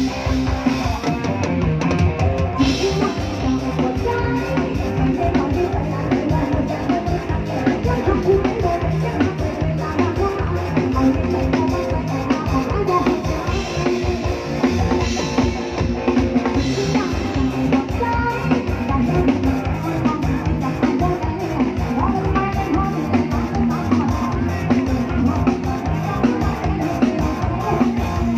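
Live band music with a drum kit keeping a steady beat, bass drum and snare prominent, over electric guitar and bass.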